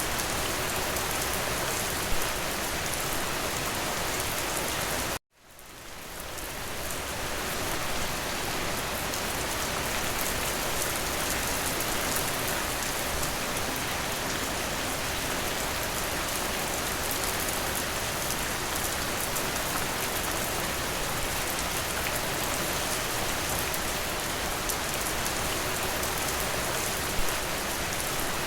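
Steady rain falling, an even hiss of drops, with a couple of single louder drops. About five seconds in the sound cuts out abruptly and fades back in over about two seconds.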